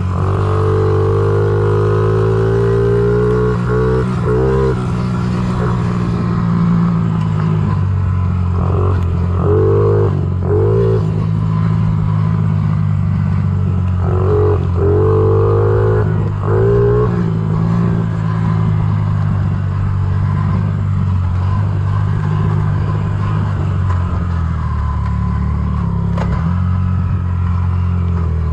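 Honda CRF50 pit bike's small single-cylinder four-stroke engine running as it is ridden, revving up in short rising bursts of throttle several times, most of them in the first twenty seconds.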